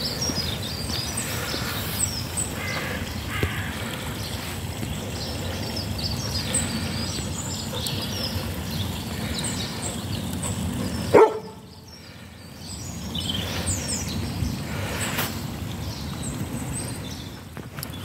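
Small birds chirping over a steady low rumble of wind and handling noise on the microphone. A single sharp knock comes about eleven seconds in, and the rumble drops away for a couple of seconds after it.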